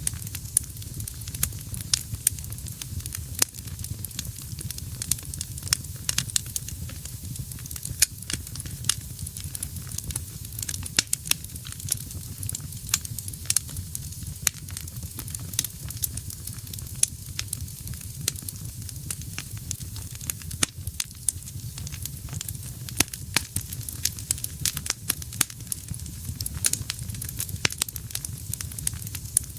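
Wood fire burning in a fireplace: a steady low rumble of flame with a hiss, and frequent sharp, irregular crackles and pops from the burning logs.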